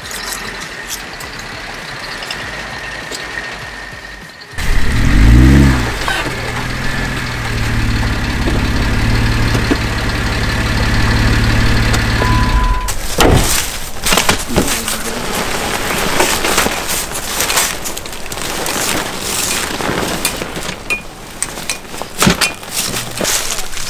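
Jeep Wrangler JK engine starting about four and a half seconds in, rising quickly in pitch and then idling steadily, with a short beep just before it stops suddenly near the middle. Scattered clicks and knocks follow.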